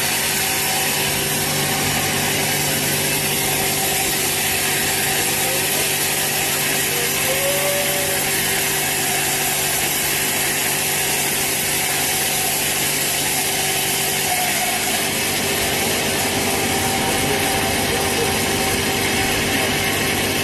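Sawmill saw cutting through a large teak log: a steady, unbroken run of sawing noise with a constant motor hum beneath it.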